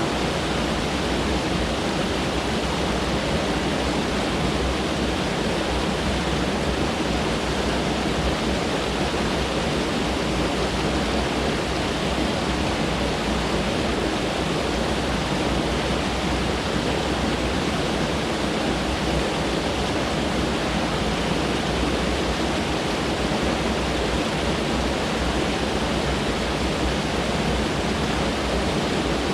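Mountain stream rushing over rocks, a steady full rush of water with no breaks.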